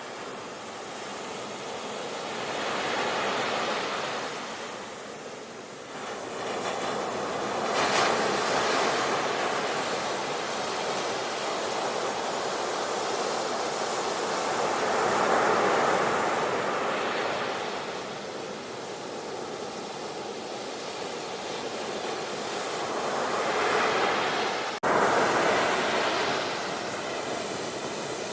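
Sea waves breaking and washing ashore: a continuous rush of surf that swells and falls every several seconds. A sudden brief dropout comes near the end.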